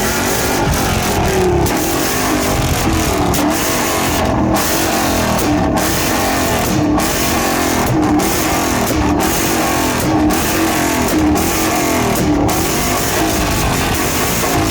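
Loud car engine noise mixed with background music that has a regular beat, about once a second.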